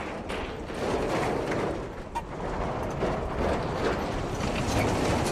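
A road train driving: a steady, noisy rumble.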